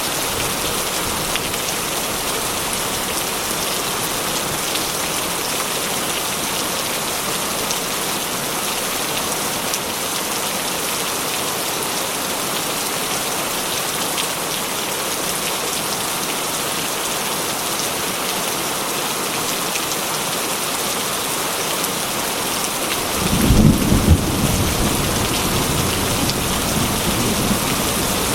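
Heavy rain falling steadily on a metal roof. Near the end a low rumble of thunder comes in suddenly and rolls on under the rain.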